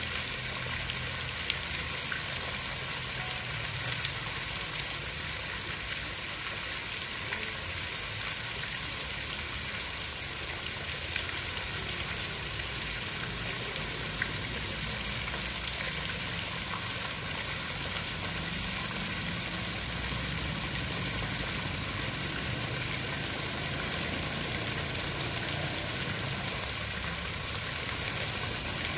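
Steady water noise: an even hiss with a low rumble underneath and a few faint ticks.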